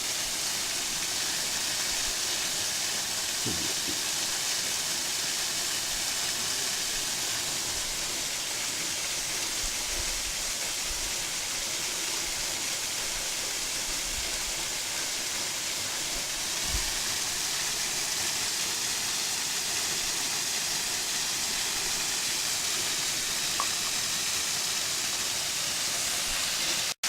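Steady rushing of a waterfall's falling water, the low flow of the dry season.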